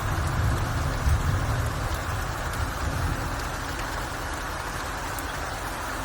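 Steady rain falling as an even hiss. A low rumble underneath fades out over the first few seconds.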